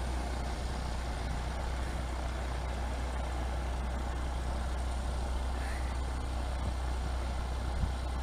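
Steady low rumble under an even hiss, with no change in pitch or level.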